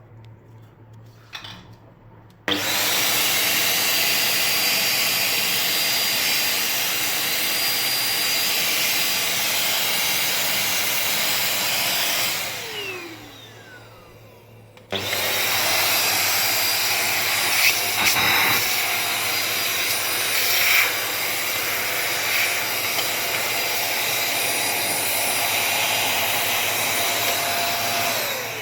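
Agaro Regal 800-watt handheld vacuum cleaner switched on a couple of seconds in and run steadily for about ten seconds, then switched off, its motor whine falling as it spins down. It is switched on again about three seconds later and runs steadily, with a couple of short knocks, until it spins down again at the very end.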